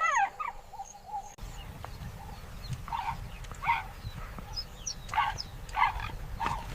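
Hyenas calling: a short falling call at the start, then a run of brief, high yelping calls over a low background rumble.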